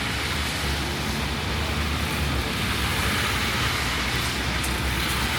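Rainy city street: a steady hiss of rain and car tyres on wet pavement over the low rumble of passing traffic.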